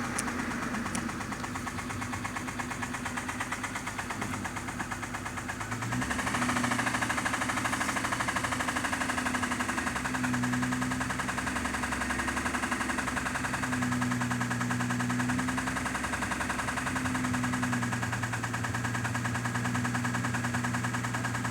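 Mitsubishi 6A13 V6 engine idling with a rapid, even knock, which the owner places between the cylinder heads and cannot account for. It gets louder about six seconds in.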